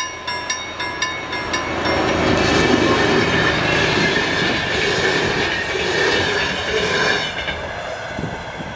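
Level-crossing warning bell ringing about three strikes a second, fading out within the first two seconds. A regional passenger train then runs over the crossing: a loud rush and rumble of wheels on rails for about five seconds, dying away near the end.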